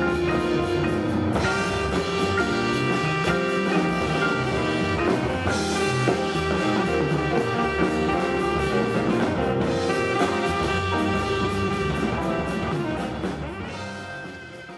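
Jazz band playing, with horns and a drum kit; the music fades out near the end.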